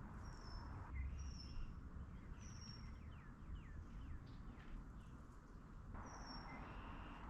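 Small songbirds calling over a faint outdoor hiss: short, high whistled notes, each falling slightly, repeated about once a second, with a run of quick downward-sliding chirps in the middle.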